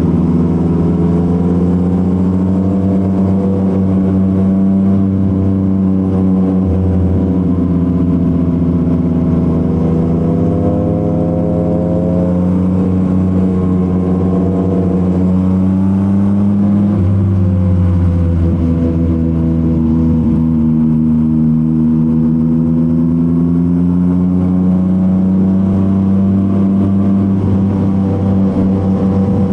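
Yamaha MT-09's inline-three engine running through a Revoc SP full aftermarket exhaust while riding. It holds a steady note whose pitch rises and falls gently a few times with the throttle, with no sharp revs.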